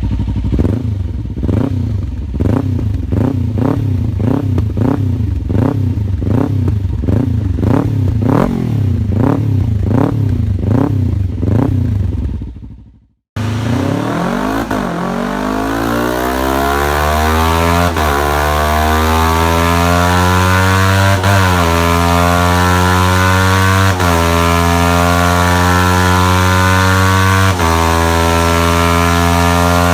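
Kawasaki Ninja 300 parallel-twin engine with an aftermarket exhaust, revved in quick repeated blips. After a cut, it accelerates hard through the gears, the pitch climbing and dropping briefly at each shift, about every three seconds.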